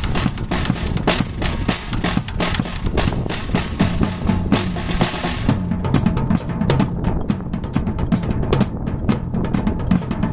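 Drum kit solo with fast, dense strokes; cymbals ring over the first half, then drop out about halfway through while rapid strokes on the drums carry on.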